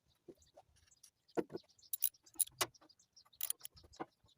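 Irregular sharp metallic clicks and clinks of hand tools and small engine parts being handled on a small Briggs & Stratton mower engine, with a few louder knocks scattered through.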